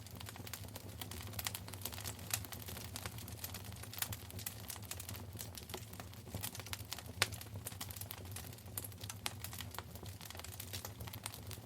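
Wood fire in a fireplace crackling, with irregular sharp pops and snaps over a soft steady hiss and a low hum.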